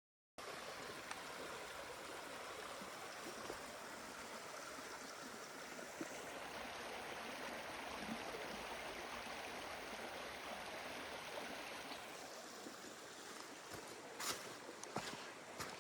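A stream running, a steady even rush of water, with a thin high steady tone for several seconds in the middle. Near the end, footsteps start.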